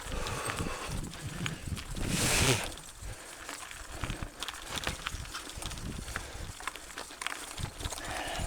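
Mountain bike clattering and rattling over a rough, rocky dirt trail, a quick irregular string of knocks over a low rumble. About two seconds in, a brief loud rush of noise rises and falls.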